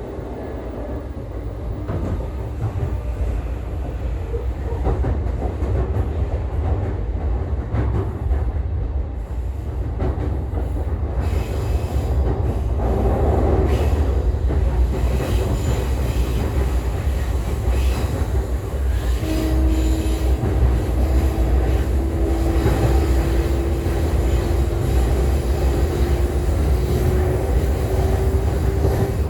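E531 series electric train running between stations, heard on board: a steady low rumble of wheels on rail with scattered clicks. From about two-thirds of the way through, a single low tone slowly rises in pitch.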